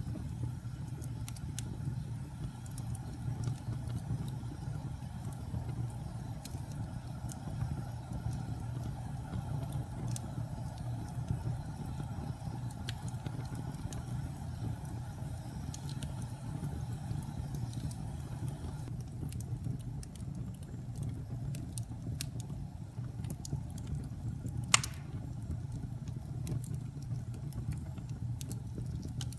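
Wood fire burning in a fireplace: a steady low rumble of flames with scattered small crackles, and one sharper pop near the end.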